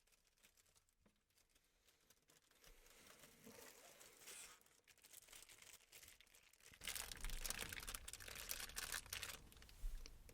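Crinkly packaging rustling and crackling as it is handled, faint for the first several seconds and much louder from about seven seconds in.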